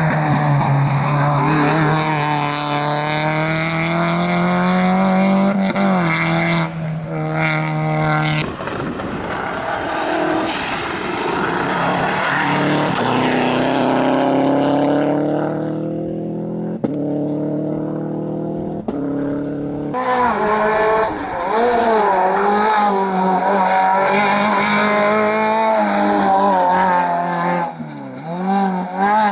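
Rally cars' engines at full throttle, the pitch climbing under acceleration and dropping at gear changes and lifts. The engine note changes abruptly a couple of times as one car gives way to another.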